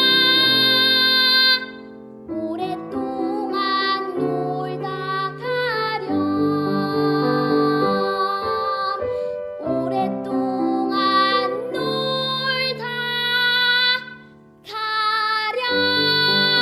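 A child singing a Korean children's song over an instrumental backing track. The music drops off briefly about two seconds in and again near the end.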